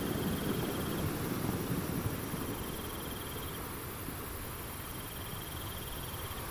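Insect trilling in repeated pulsed bursts of about a second, typical of a cricket, over a steady rushing noise of a nature ambience.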